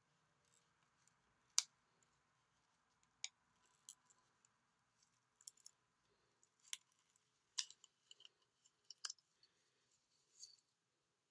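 Faint, scattered clicks and small rustles of hair being wrapped around plastic drinking straws and tied, at irregular intervals over a near-silent room.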